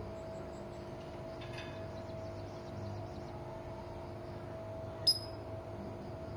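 A serindit (hanging parrot) gives one short, sharp, high call that falls in pitch, about five seconds in, over a steady low hum.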